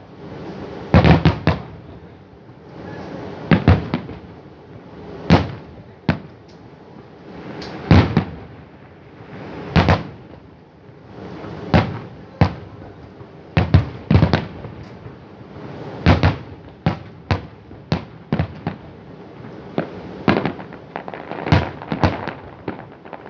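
Fireworks display: aerial shells bursting in the sky, a sharp boom every second or two, each with a short echoing tail, coming thicker and faster in the second half.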